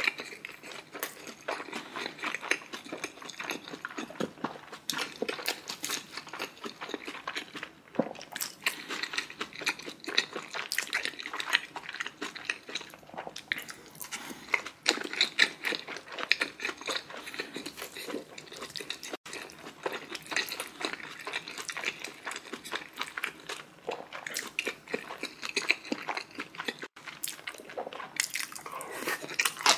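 A person chewing food close to the microphone: a dense, uneven run of small wet and crunchy clicks with no talking.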